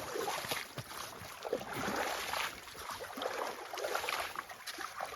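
Snowmelt flood runoff flowing and carrying slush, with irregular splashing and sloshing.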